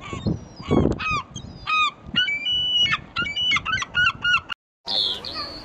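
Geese honking: many short calls in quick succession, overlapping. The calls cut off abruptly with a brief gap near the end, after which a different call follows.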